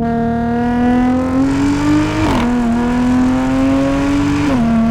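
Audi's supercharged V6, fitted with an AWE Touring exhaust and intake, pulling hard under acceleration: the engine note climbs steadily, drops sharply a little past two seconds in at an upshift, then climbs again and drops once more near the end at the next shift.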